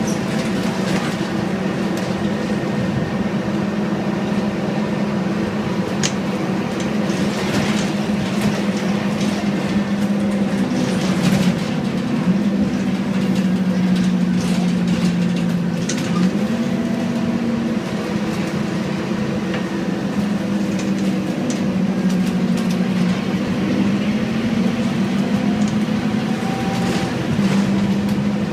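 Scania N230UD double-decker bus's diesel engine running under way, its note stepping up and down several times as the ZF six-speed automatic gearbox changes gear. Occasional knocks and rattles sound over the engine.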